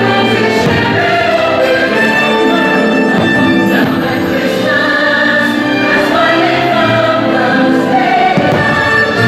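Fireworks show soundtrack: orchestral music with a choir singing sustained, swelling chords.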